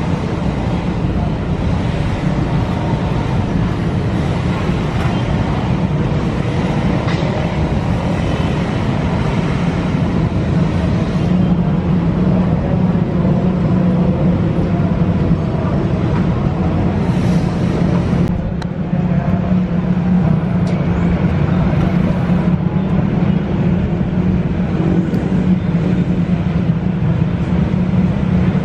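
Steady, loud rumble of KRL electric commuter trains and surrounding city traffic, dipping briefly about eighteen seconds in.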